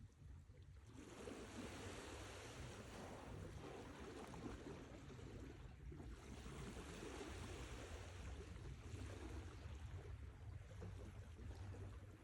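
Sea waves breaking and washing in, swelling and easing in surges, with a brief lull about halfway.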